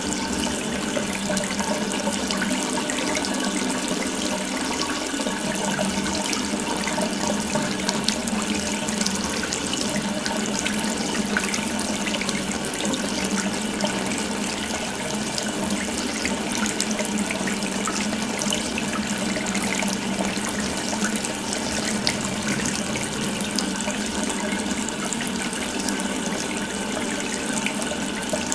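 Water from an open faucet running continuously in a steady splashing stream.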